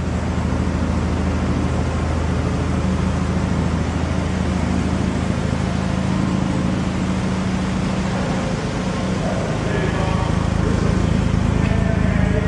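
1993 Mazda RX-7's 1.3-litre twin-turbo rotary engine idling with a steady low hum.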